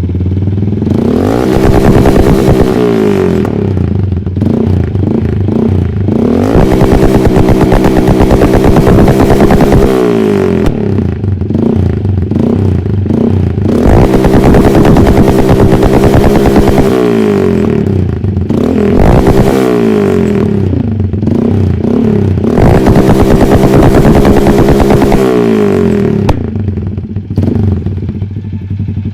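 Small-displacement motorcycle engine revved repeatedly up to the rev limiter and held there cutting in and out, then dropped back toward idle. About four rev-ups in all.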